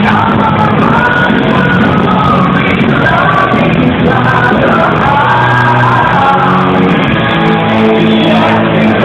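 Live heavy metal band playing loud and distorted, with a singer's voice, heard through a low-quality audience recording that cuts off the highs.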